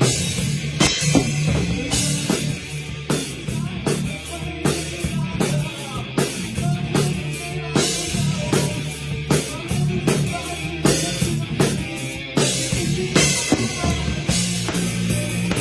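Rock band playing, with a drum kit driving a steady beat of kick, snare and cymbal hits over bass and distorted guitar.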